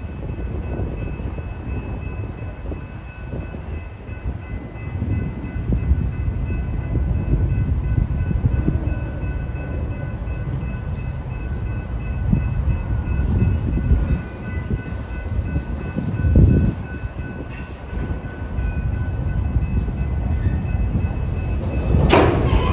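Freight cars rumbling and clattering through a railroad grade crossing, with the crossing's electronic warning bell ringing steadily over it. A brief, louder clank or screech comes near the end.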